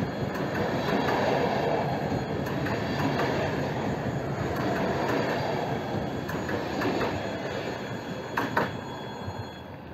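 Electric multiple-unit passenger train rolling past: a steady rumble of wheels on rail that fades as the last car goes by. Two sharp clacks come near the end.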